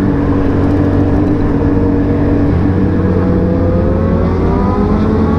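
Motorcycle engines running at highway speed: a steady low engine note, joined about halfway through by a second engine note that climbs slowly in pitch as a bike accelerates.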